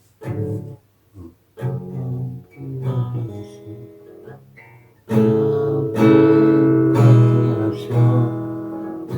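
Acoustic guitar: a few separate chords and picked notes with short pauses, then steady strumming from about five seconds in, the introduction to the next song.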